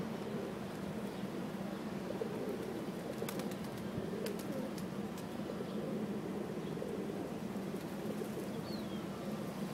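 Domestic pigeons cooing steadily, with a few sharp clicks about three to five seconds in and a brief high chirp near the end.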